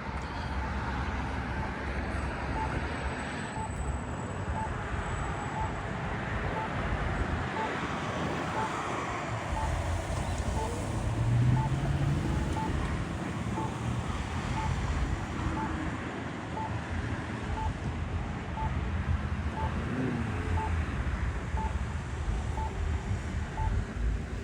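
Road traffic passing, with vehicle engines and tyre noise and wind on the microphone. One vehicle swells louder about halfway through. A faint short pip repeats about once a second.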